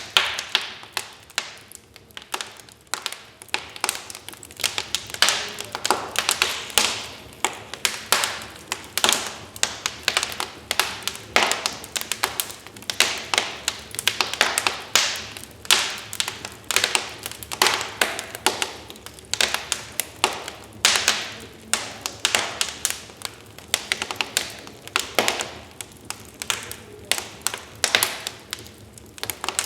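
Wood fire crackling in a fireplace: dense, irregular sharp pops and snaps, several a second, with no steady roar beneath them.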